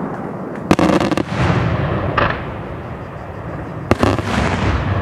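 Daytime fireworks shells bursting. A rapid string of sharp cracks comes just under a second in, then a smaller report around two seconds, then a loud single bang about four seconds in, each trailing off in a rumbling echo.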